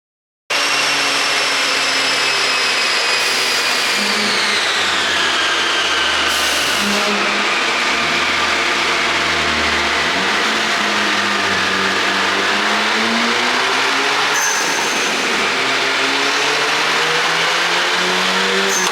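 Audi TTS turbocharged 2.0-litre four-cylinder engine, running on an ECU tune meant to make it pop, cuts in suddenly. Its note rises and falls, and a high whine glides steadily downward over several seconds.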